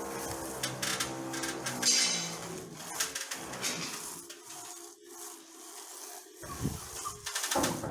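A plastering tool scraping and rubbing decorative plaster over a wall in repeated uneven strokes. Background music fades out in the first two seconds.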